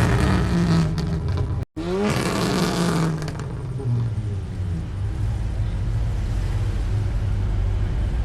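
A vehicle engine running, briefly revving and then settling to a steady lower tone; the sound cuts out for an instant about two seconds in.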